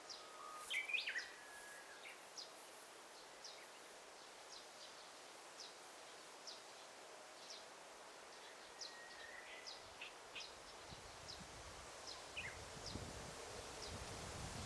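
Forest ambience: a bird repeating a short high chirp about once a second over a soft, steady hiss, with a louder call of several notes about a second in and another about nine seconds in. A low rumble comes in near the end.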